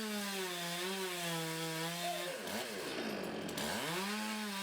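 Stihl two-stroke chainsaw running at high revs, cutting wood. Its engine speed drops sharply about two and a half seconds in, then climbs back up about a second later.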